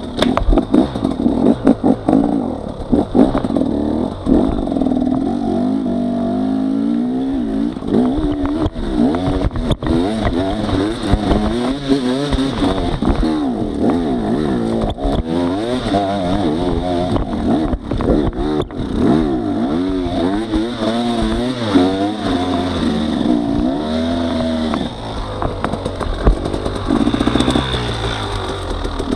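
Off-road trail motorcycle engine running under load, its pitch rising and falling again and again as the throttle opens and closes.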